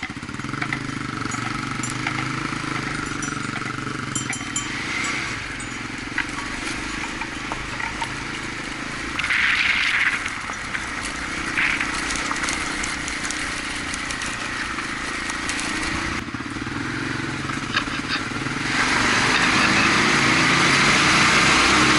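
Honda XR250's single-cylinder four-stroke engine running steadily while riding, with road and wind noise; the noise grows louder about three-quarters of the way through.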